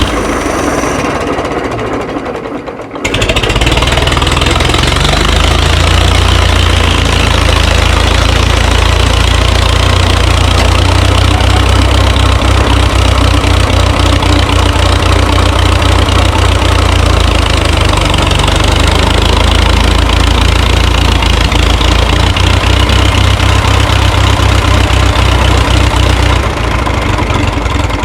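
Minneapolis Moline tractor engine running steadily and loudly. It dips briefly, then comes back abruptly at full strength about three seconds in, and eases off a little near the end.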